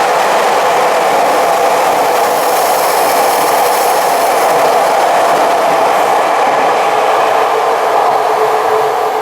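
A Tokyu commuter electric train running past on the rails, a loud steady rumble and hiss of wheels and motors.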